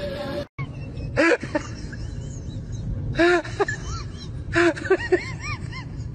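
A pet animal giving short, high calls that rise and fall in pitch. There is one about a second in, a couple about three seconds in, and then a quick run of five or six near five seconds.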